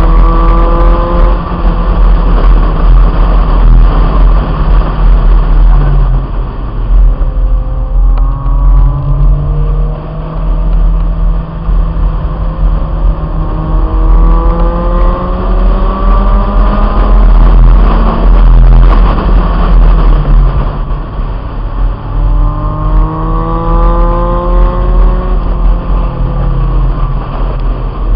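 1997 Honda Integra's four-cylinder engine pulling hard on track, its pitch climbing in three long rises with dips between for shifts and lifts. A heavy low wind rumble runs under it from the microphone on the roof.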